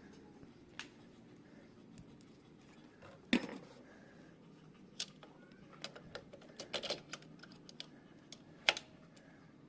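Scattered light clicks and knocks of tools and engine parts being handled at the workbench, the loudest knock about three and a half seconds in and a quick cluster of clicks around seven seconds; no engine running.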